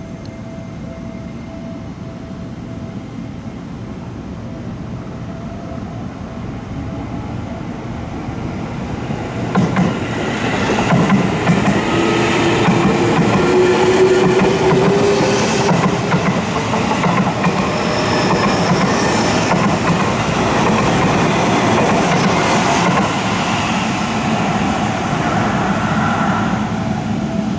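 A Seibu Ikebukuro Line electric train approaches, growing louder for about ten seconds, then passes close by with the rapid clickety-clack of its wheels over the rail joints and a brief rising whine, fading slightly near the end.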